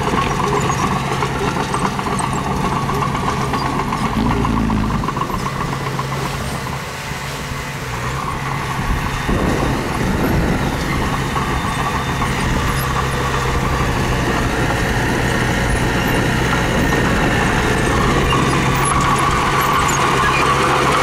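Diesel engine of earthmoving machinery running steadily. It eases off about seven seconds in and picks up again a couple of seconds later.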